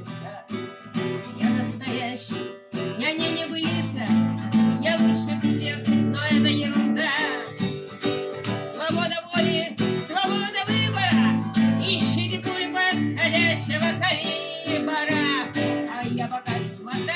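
Acoustic guitar strummed in a steady rhythm under a song, with a wavering melody line above the chords.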